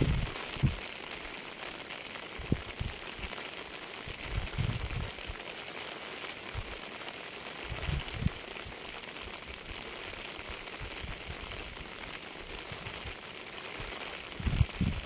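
Steady rain hissing, with scattered low thuds from drops or gusts close to the microphone and a cluster of them near the end.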